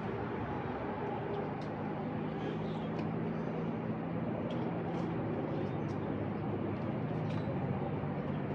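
Steady low hum of a motor, with short faint high chirps scattered throughout.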